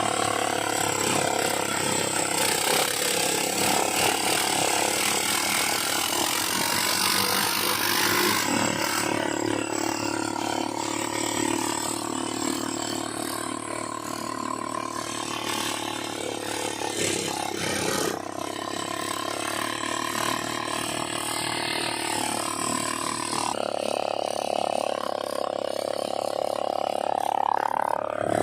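All-terrain vehicle (ATV) engine running steadily during a ride, with mechanical noise throughout.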